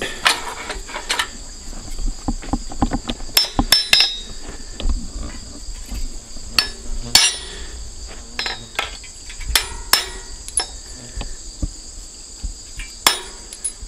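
Hand hammer striking steel letter stamps, sharp metallic taps in uneven clusters, as a name is stamped into the back of a forged iron leaf. Crickets chirr steadily in the background.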